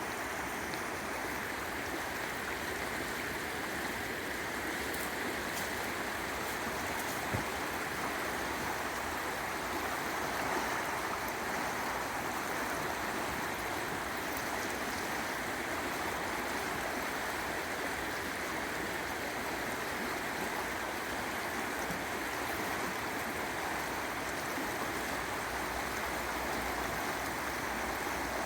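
Water of a stream or river rushing steadily, with one short click about seven seconds in.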